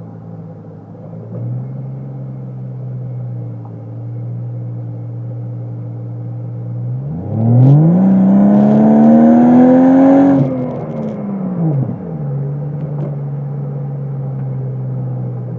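Chevrolet Trailblazer engine through a Magnaflow exhaust, idling steadily. It gives a short blip about a second and a half in. Later it revs up, holds high for about three seconds as the loudest part, and then falls back to idle.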